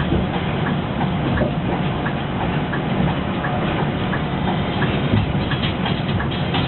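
Inside a moving Irizar PB coach on a Scania 340 chassis: steady engine and road rumble, with a faint regular ticking about one and a half times a second.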